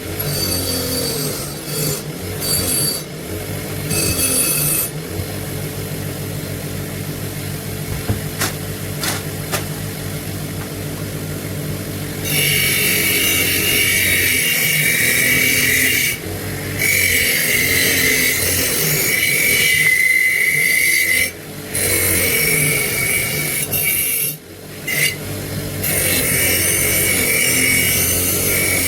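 A power tool's motor hums steadily while a metal pistol part is abraded against it. From about the middle on come long spells of harsh, high-pitched grinding, broken by brief pauses where the part is lifted off.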